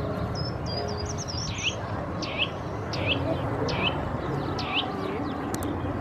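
Birds chirping: a quick high twitter in the first second or so, then a run of short, curving calls about one every three-quarters of a second, over a steady background rush.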